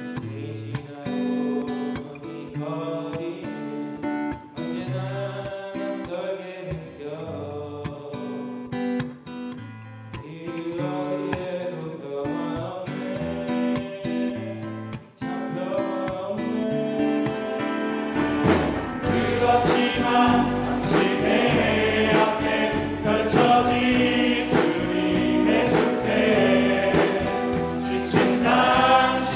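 Men's vocal ensemble singing a gospel hymn in harmony, accompanied by acoustic guitar. About two-thirds of the way through, the music swells louder and fuller.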